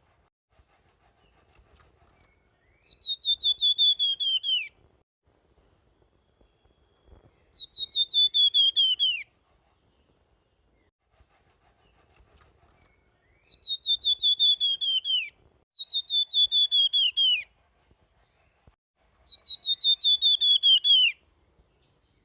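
Songbird known in Indonesian bird-keeping as 'flamboyan' singing five short phrases with pauses between them. Each phrase is a fast run of whistled notes that falls in pitch toward its end.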